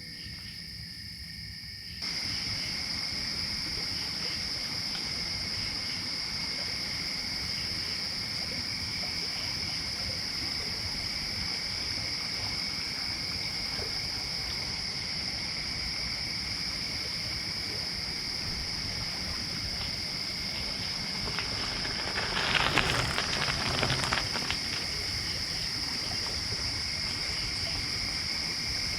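Gravel bike's tyres rolling over gravel, with wind rushing on the microphone, under a steady high chorus of crickets. The riding noise comes in suddenly about two seconds in, and for about two seconds near the end it gets louder and rougher.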